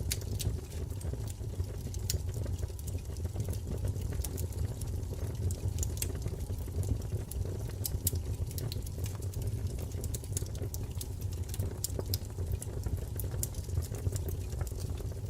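Wood fire burning, a steady low rumble with frequent sharp crackles and pops scattered through it.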